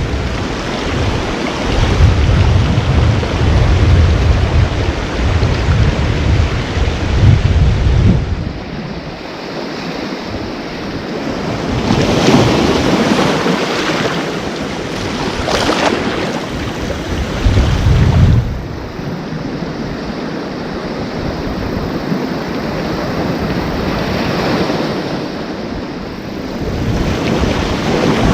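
Ocean waves breaking and washing ashore in repeated surges, with wind buffeting the microphone as a low rumble through the first several seconds and again briefly later on.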